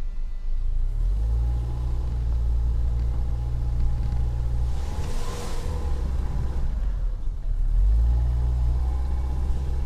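A motor vehicle running during a ride, a steady low rumble that steps in pitch about a second in and again near the end. There is a brief swell of hiss about five seconds in.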